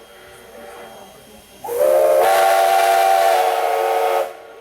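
Steam locomotive chime whistle, Strasburg Rail Road Engine 89, blowing one long blast of several tones at once. It starts about a second and a half in with a slight upward slide, holds steady for about two and a half seconds, then cuts off, with a quieter steam hiss before it.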